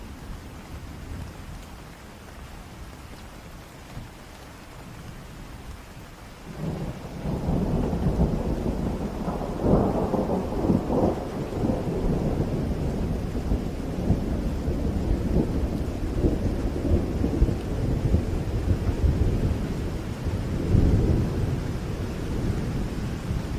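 Thunderstorm: steady rain with a long rolling rumble of thunder that builds about six seconds in, peaks twice, and keeps rumbling to the end.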